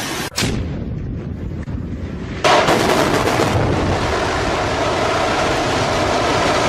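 A building coming down in a demolition: a low rumble, then about two and a half seconds in a sudden loud crash of collapsing structure that goes on as a sustained noisy roar.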